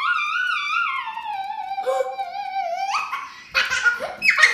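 A dog whining: one long, high, wavering whine that slowly falls in pitch over about three seconds, as it watches the laser dot. A short noisy burst follows near the end.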